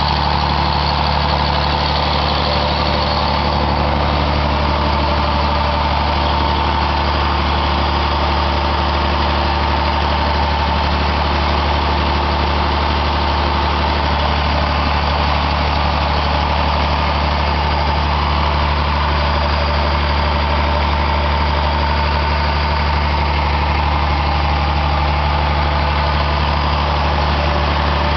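Engine running on 100% biogas, running steadily at a constant speed with a low hum and a steady higher whine.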